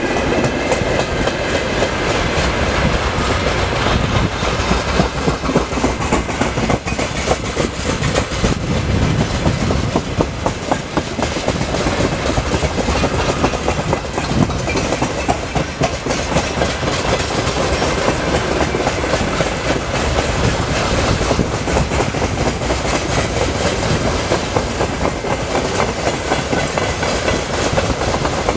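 Freight train of open-top wagons passing at speed: a steady rush of steel wheels on the rails with continuous clickety-clack over the rail joints.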